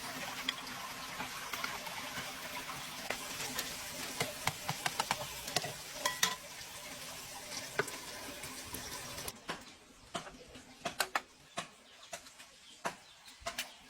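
Water running steadily from a tap or pipe, with scattered clicks and knocks, until the flow stops about nine seconds in; the clicks and knocks carry on after it.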